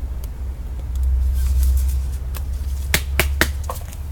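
A low steady rumble that swells about a second in, with a few sharp clicks near the end.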